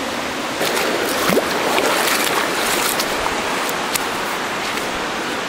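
Hazel Creek rushing steadily over its rocks, with a louder stretch of sharp splashes and knocks from about half a second to three seconds in.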